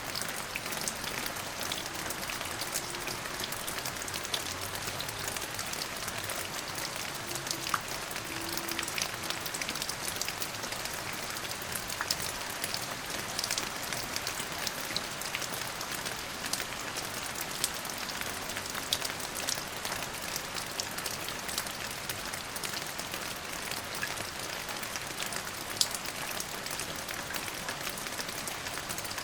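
Steady rain falling, an even hiss with many small drop ticks pattering on a surface.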